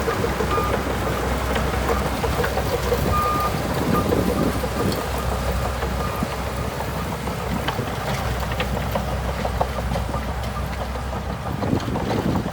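Bulldozer's diesel engine running steadily with a low drone, under scattered clanks and rattles and a few short high squeaks; the low drone drops away near the end.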